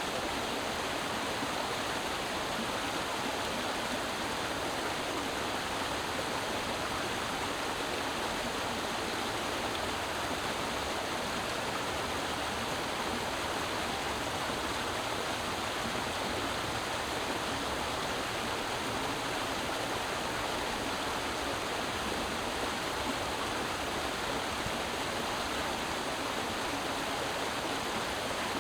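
Creek water flowing and rushing over rocks, a steady even wash.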